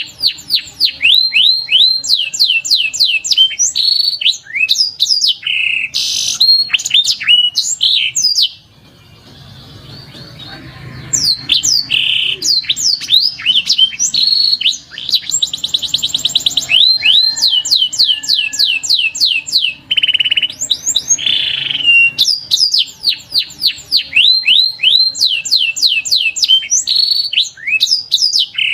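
Domestic canary singing: long runs of quick, repeated sweeping whistled notes, with a short pause about a third of the way in and a very fast buzzing trill a little past halfway.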